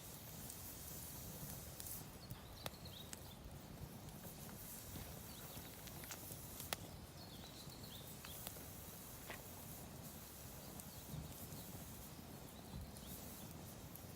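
A campfire of damp firewood burning, with a low steady hiss and scattered sharp pops and crackles, the loudest about halfway through. The wood is not dry and is burning poorly.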